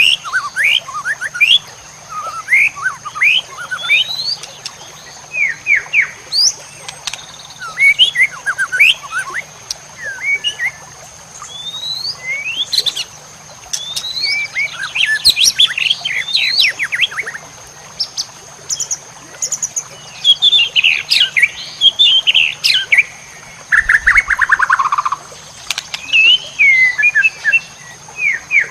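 White-rumped shama (murai batu) singing a long varied song: quick whistled phrases, rising and falling glides and rapid trills in short bursts with brief pauses, over a steady faint high tone.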